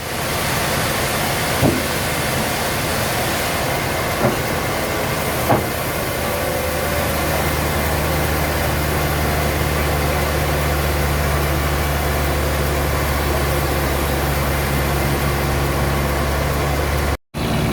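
Sawmill machinery running steadily: a dense mechanical hiss with a few knocks in the first six seconds, then a steady low engine-like hum from about seven seconds in. It cuts out briefly near the end.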